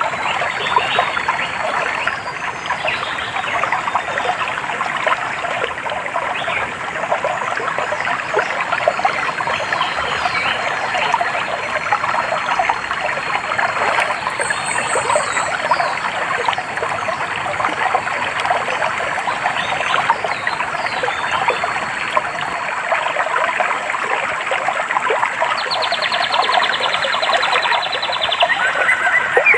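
Stream water trickling and babbling steadily, with small birds chirping faintly above it and a fast trill near the end.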